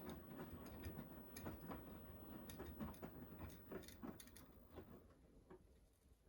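Faint sounds of a Beko front-loading washing machine mid-wash: a low hum with soft, irregular clicks and knocks as the drum tumbles the wet duvet covers in foamy water, dying down near the end.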